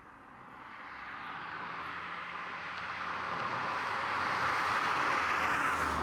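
A vehicle passing: a steady rush with a low hum that builds over about five seconds, peaks near the end and starts to fade.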